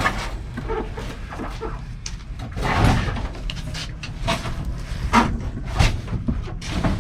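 Hand work on an old truck's cab interior: irregular knocks and clunks with a stretch of scraping and rustling about two and a half seconds in, and two sharper knocks near the end.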